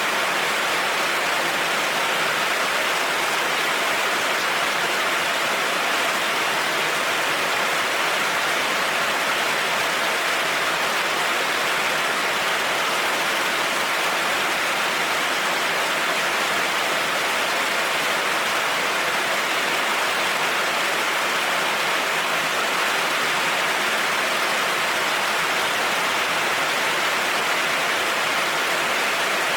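Heavy rain falling steadily on a road, an even hiss that does not change.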